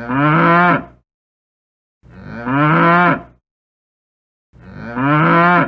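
A cow mooing three times, each moo a little over a second long and about two and a half seconds apart.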